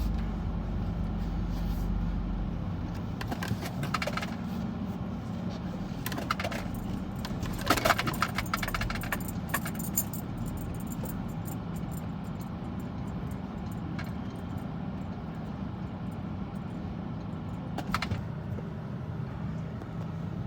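Steady low hum heard from inside a van's cabin as it waits at the start of a car wash tunnel, with a few scattered metallic clicks and jingles, the loudest cluster about eight seconds in and another near the end.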